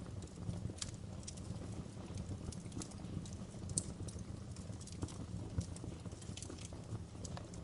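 Wood fire burning in a fireplace: a steady low rumble of flames with irregular sharp crackles and pops, several a second, a few of them louder.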